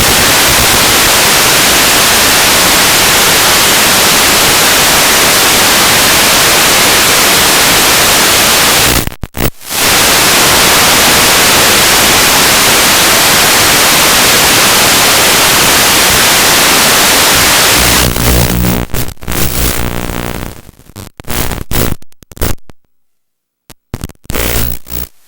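Loud, steady static hiss, typical of the audio channel of an analog FPV video receiver recorded on the goggles' DVR. It drops out briefly about nine seconds in, then breaks up into choppy bursts from about three-quarters of the way through, with a short stretch of near silence near the end.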